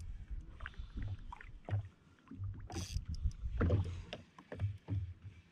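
Water lapping against the hull of a drifting Sea-Doo FishPro jet ski, with an uneven low rumble and scattered light knocks and clicks.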